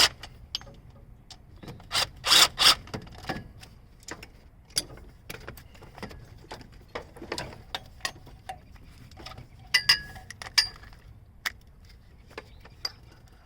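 Irregular metal clicks and clinks of bolts being threaded back into a transmission case and snugged with hand tools, with a cluster of louder knocks about two seconds in and another near the ten-second mark.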